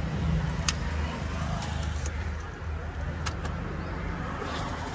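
Mahindra Scorpio N's engine idling steadily, with a few sharp clicks from the cabin controls.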